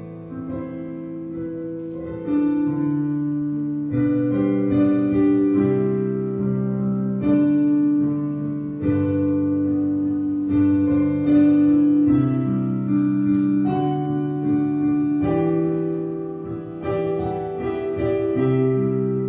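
Slow instrumental keyboard music: sustained chords that change every one to two seconds, with no singing.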